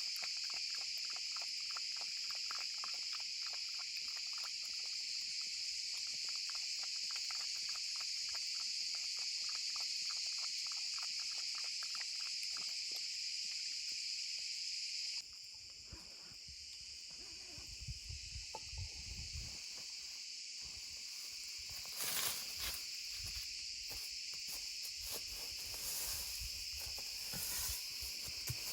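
Steady chorus of forest insects, high-pitched and continuous, which drops away suddenly about halfway through. Low rumbles and a few light knocks follow.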